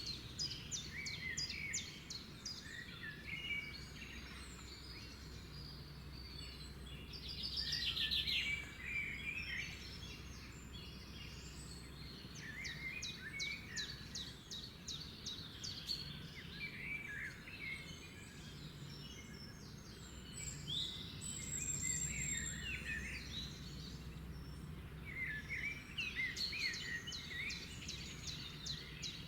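Several wild birds chirping, whistling and trilling in rapid runs of notes, overlapping throughout, over a steady low background rumble.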